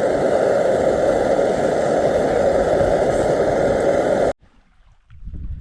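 Portable camping stove burner running with a steady hiss, cut off abruptly about four seconds in; then much quieter, with a faint low thump near the end.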